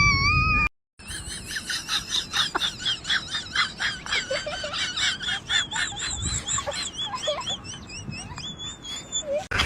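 A wavering whistle-like tone that stops abruptly at a cut, then a long run of quick, high-pitched, wavering bird-like chirps.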